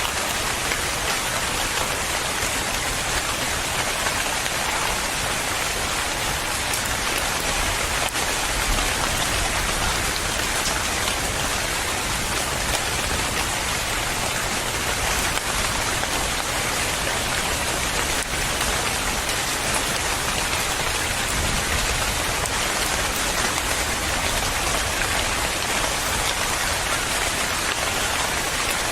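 Steady heavy rain falling on a surface, an even hiss of dense drops.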